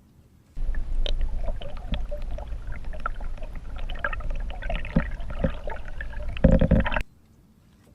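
Water splashing and gurgling as a hooked fish is brought in at the surface, with a louder rush of water just before it cuts off abruptly.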